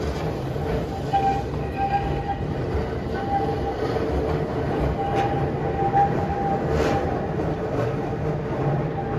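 Keihan four-car electric train rolling slowly over street-level track and curving left through a road crossing, a steady running noise with a thin tone that comes and goes.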